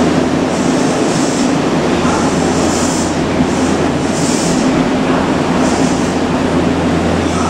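Odakyu 8000 series electric train standing at an underground platform, its onboard equipment giving a steady hum with a low tone. Short hissing bursts recur every second or so.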